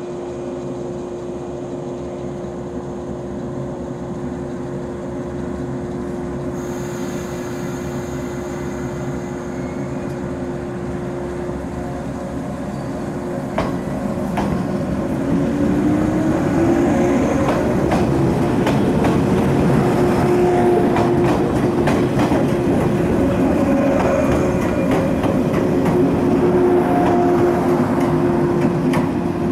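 JR West 115 series electric train standing with a steady hum, then pulling away about halfway through. A motor whine rises in pitch, the sound grows louder, and the wheels click over the rail joints as the cars pass.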